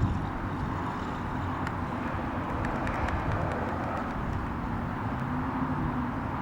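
Twin-turbo V12 kit car's engine running steadily under a constant rushing noise.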